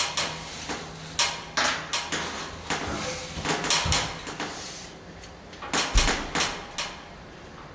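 Irregular knocks, clatters and scrapes of hand work on a lath-and-plaster wall, with two heavier thuds about four and six seconds in.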